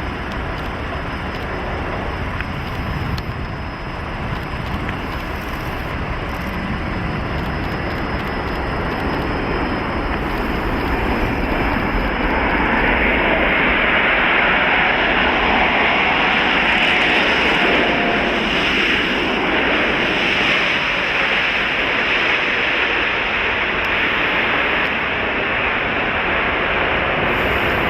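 Turbofan engines of a heavy jet arriving on the runway: a rushing jet roar that builds for about twelve seconds, then holds loud with a strong hiss.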